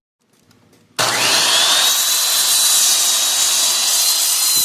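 An electric power tool starts about a second in. Its whine rises quickly and then holds steady while it runs loudly with a dense hiss.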